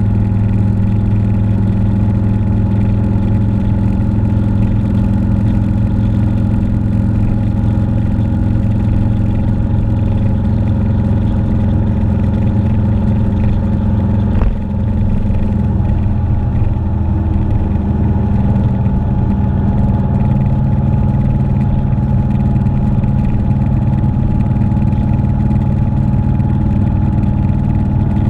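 Motorcycle engine running at a steady speed while riding, holding an even pitch throughout, with a single brief click and momentary dip about halfway through.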